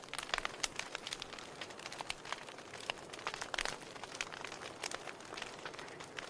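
Campfire crackling: a soft hiss broken by many sharp, irregular pops and snaps.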